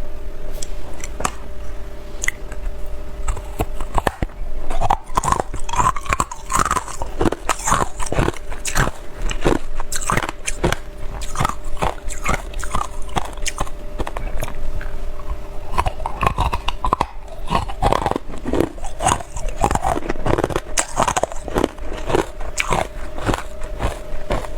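Frozen ice being bitten and chewed close to the microphone: a dense, irregular series of sharp cracks and crunches, over a faint steady hum.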